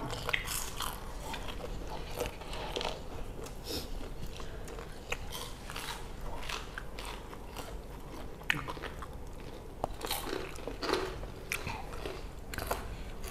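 Two people chewing fried street snacks with irregular crisp crunches and wet mouth sounds, a few sharper crunches near the end.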